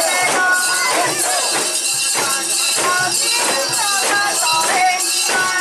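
A crowd of mikoshi bearers chanting in many overlapping voices, over a rhythmic metallic jingle about twice a second from the portable shrine's swaying metal fittings.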